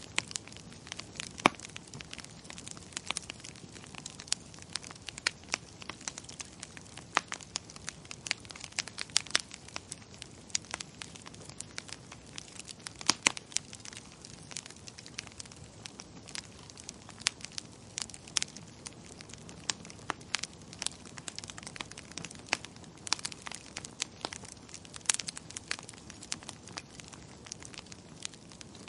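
Wood fire crackling in a fireplace: irregular sharp pops and snaps, several a second and some louder than others, over a soft steady hiss.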